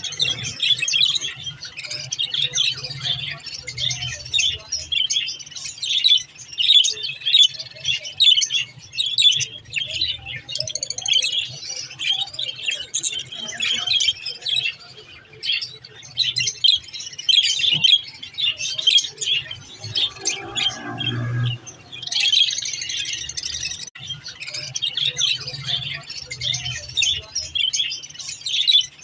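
Budgerigars chattering and warbling in a fast, continuous stream of high chirps. The chirping breaks off briefly about twenty seconds in, when a lower, duller sound is heard, then starts again.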